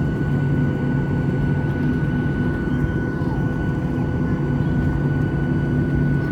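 Steady engine drone and cabin noise inside a Boeing 737-800 with CFM56-7B turbofans, holding level with a thin steady whine above it.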